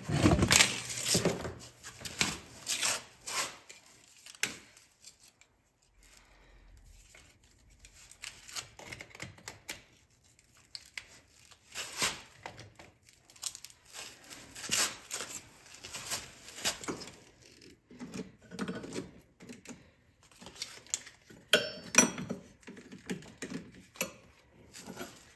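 Irregular light clicks and metal clanks, on and off, from handling jumper cable clamps and tools at the starter solenoid; no engine cranking is heard.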